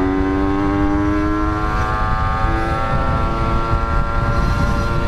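Yamaha RX-King two-stroke single-cylinder engine running through an aftermarket Cobra-model exhaust, its revs held fairly steady and climbing slowly, with wind rumble on the microphone from riding.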